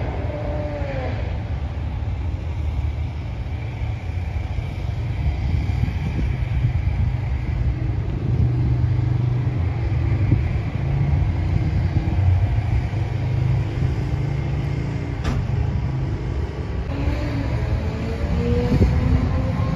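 Steady low engine rumble from running cars, with one sharp click about fifteen seconds in.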